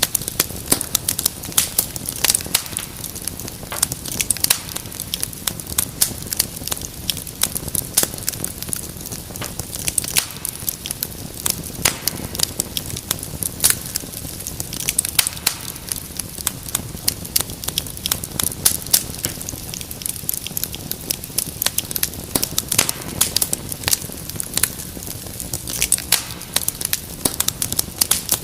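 Wood fire crackling steadily, with many sharp irregular pops and snaps over a low rushing hiss.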